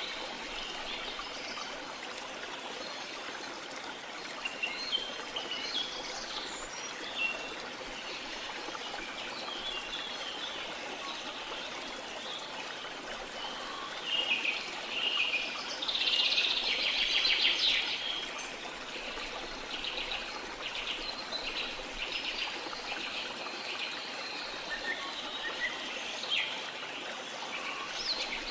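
Steady rush of running water with birds chirping and calling over it; a louder, rapid chattering call stands out a little past halfway.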